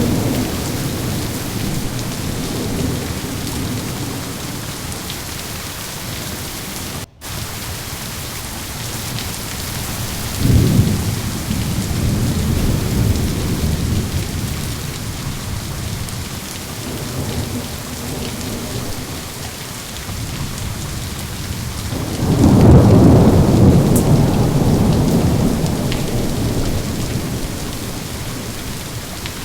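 Steady rain falling through a thunderstorm, with rolling thunder: a sharp-onset rumble about ten seconds in and a louder, longer rumble about two-thirds of the way through. The sound drops out for an instant about seven seconds in.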